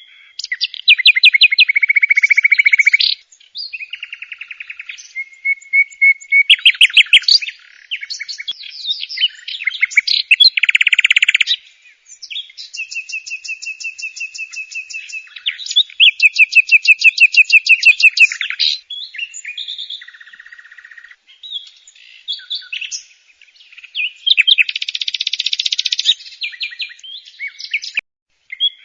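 Bird song: a loud, long run of fast trills and repeated chirping phrases, changing every second or two, with short pauses between phrases.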